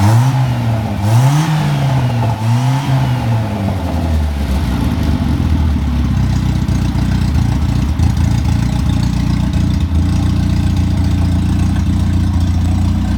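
Morris Marina's 1.3-litre BMC A-series four-cylinder engine, run up hot on a test rig: revved several times in quick blips over the first few seconds, then settling to a steady idle.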